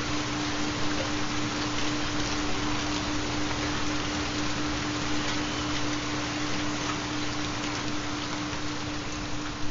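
Steady rain falling, with a continuous low steady tone underneath: a theta binaural-beat track.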